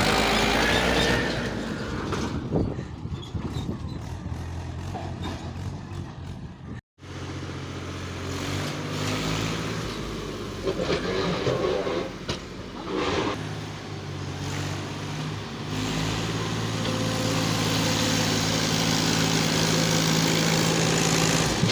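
Tractor engine running steadily, with scattered knocks and clatter over it. The sound cuts out completely for a moment about seven seconds in.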